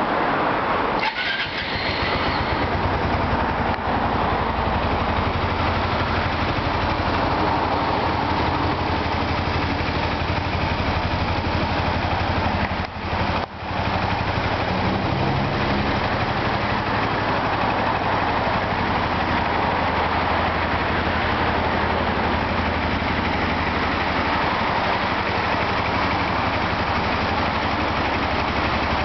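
Kawasaki Eliminator 250V motorcycle's V-twin engine running at a steady idle, with two short dips in the sound, about a second in and again about halfway.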